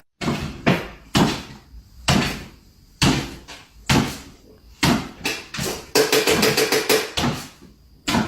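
A series of irregular knocks or thuds, about one every half-second to second, with a quick rattling run of hits about six seconds in.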